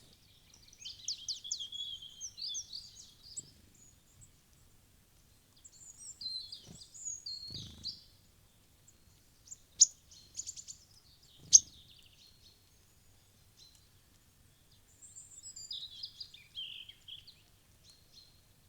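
Small wild birds chirping and twittering in three short spells, with two sharp, loud taps about ten and twelve seconds in.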